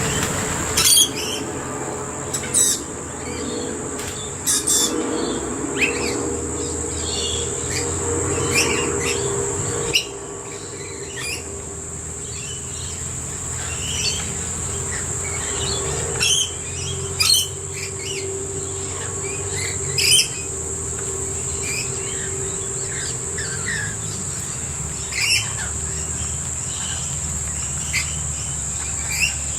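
Birds calling in short, sharp bursts at irregular intervals over a steady, high-pitched insect drone, with a faint low hum underneath.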